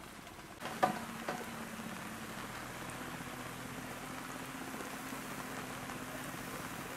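Steady rain falling on grass and foliage, with two sharp knocks about a second in and a faint low hum underneath.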